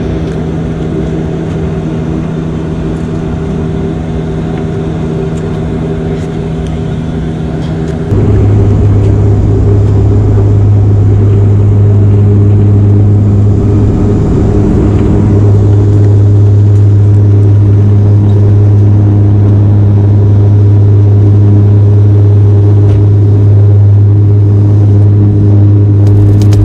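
Airliner engine noise heard inside the passenger cabin: a steady drone made of several held tones. About eight seconds in, it steps up abruptly to a louder, deeper hum and then holds steady.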